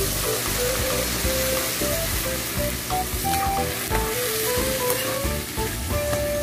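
Sliced beef sizzling in hot oil in a frying pan, stirred with a metal spoon. A background music melody plays over it.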